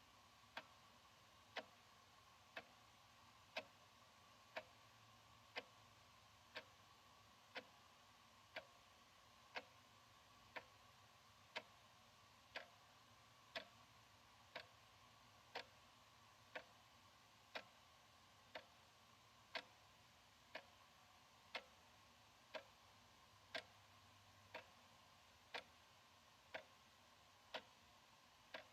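Analog wall clock ticking steadily, one soft tick about every second.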